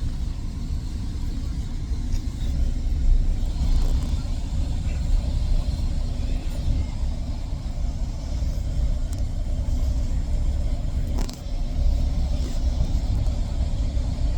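Steady low rumble of a GO Transit commuter train in motion, heard from inside the passenger coach, with a brief click about eleven seconds in.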